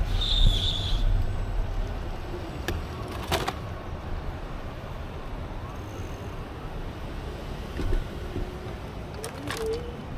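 Low rumble of wind on the microphone and rolling road noise during a bicycle ride, easing after about two seconds. A brief high squeak comes near the start, and a few sharp clicks follow later.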